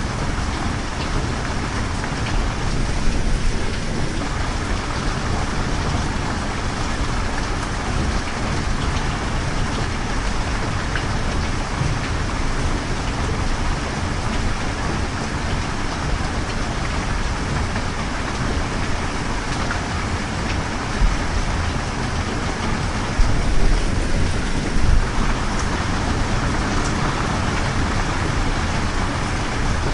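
Steady rain, with a few brief low rumbles about three seconds in and again about three-quarters of the way through.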